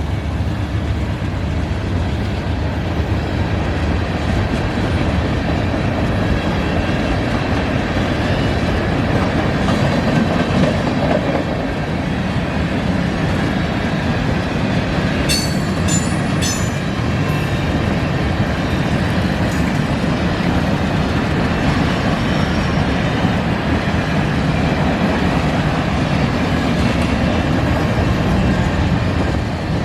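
Freight cars of a manifest train rolling past, a steady rumble of wheels on rail. A few short high squeaks come about fifteen seconds in.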